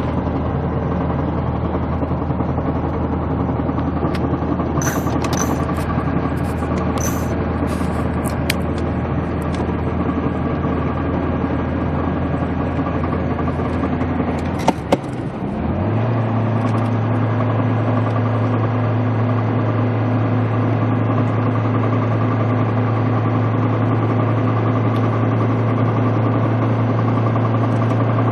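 Mercedes-Benz 240D four-cylinder diesel engine running steadily, with a few sharp clicks about five seconds in. About halfway through there is a brief knock, after which the engine note steps up to a higher pitch and holds there.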